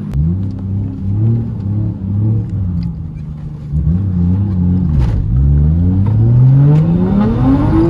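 Turbocharged 1JZ straight-six of a Toyota Mark II revving under hard acceleration: the engine pitch climbs and drops several times, then rises steadily through the last three seconds.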